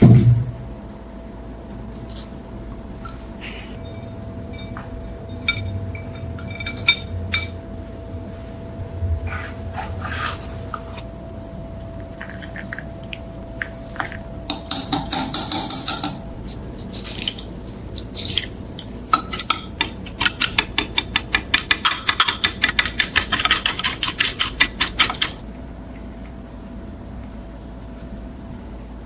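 Small metal pieces and hand tools clinking and tapping against each other, some strikes ringing briefly. There are two runs of quick, even tapping, about five taps a second, the longer one some twenty seconds in.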